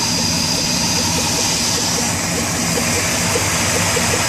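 Old Ford Bronco engine running at idle, heard close up under the open hood: a steady hum with a hiss over it and a light, uneven ticking a few times a second.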